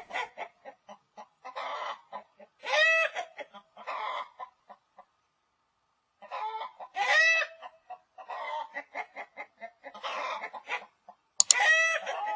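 Chickens clucking, with a louder drawn-out squawk from a hen about every four seconds and a brief pause about five seconds in.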